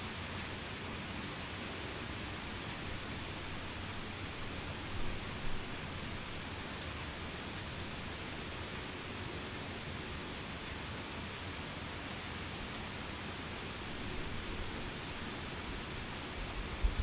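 Heavy rain falling steadily, an even hiss of countless drops, with a couple of slightly louder splashes about five seconds in.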